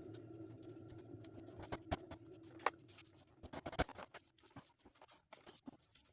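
Light taps, clicks and scratching of small wooden pieces being handled and fitted, with a faint steady hum that fades out about three seconds in.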